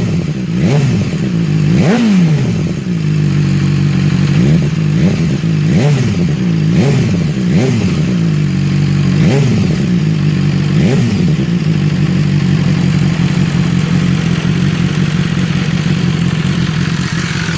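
BMW S1000R inline-four motorcycle engine blipped repeatedly through its exhaust, each rev rising sharply and dropping straight back, about nine times over the first eleven seconds, then settling into a steady idle.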